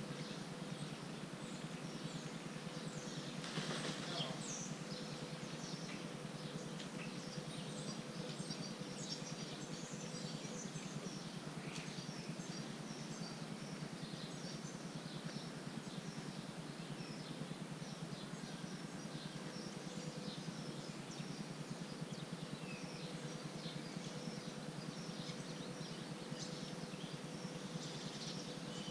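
Outdoor background noise with small birds chirping here and there throughout, over a faint steady hum. A brief louder rush of noise comes about four seconds in.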